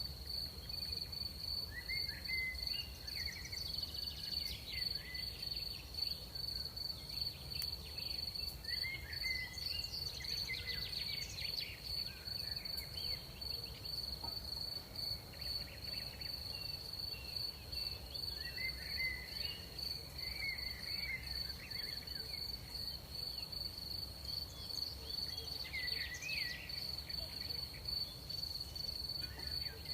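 Night ambience of crickets keeping up a steady high-pitched trill. Short chirpy calls come and go several times over a low, even rumble.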